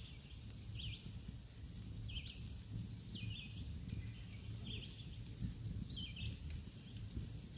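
Campfire crackling with a few sharp pops under a low, steady rumble, while a small bird repeats a short chirp about once a second.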